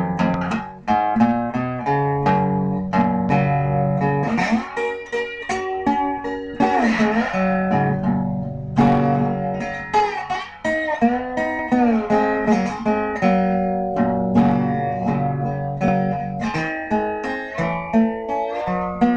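Guitar music: a run of plucked single notes and chords with bent notes sliding in pitch, in a bluesy style.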